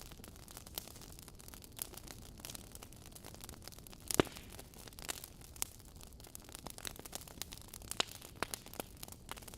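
Logs burning in a fireplace: irregular crackles and pops over a soft hiss, with one sharp, louder pop about four seconds in.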